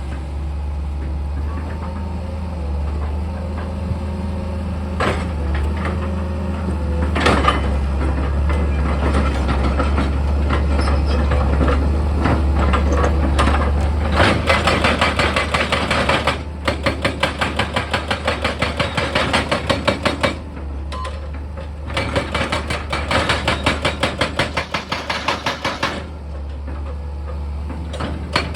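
Heavy diesel excavator engine running steadily, with a few separate knocks. About halfway through, bursts of rapid, evenly repeated hammering begin, about four blows a second, stopping and starting several times.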